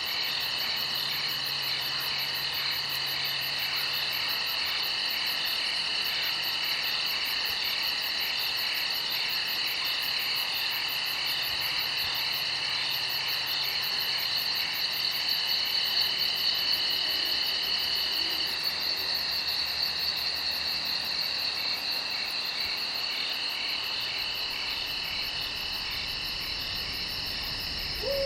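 A chorus of crickets chirping steadily, several rapid pulsing trills at different high pitches overlapping without a break.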